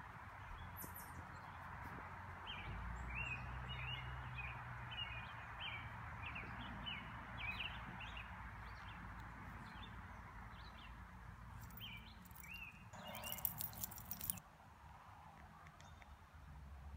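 Wild birds chirping, many short calls in quick succession, over a steady outdoor hiss and low rumble. Near the end a brief burst of noise, after which it goes quieter.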